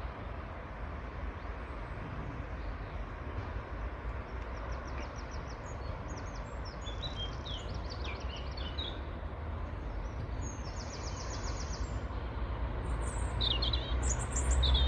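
Small birds chirping and trilling in short runs, with a sharper burst of chirps near the end, over a steady low background rumble.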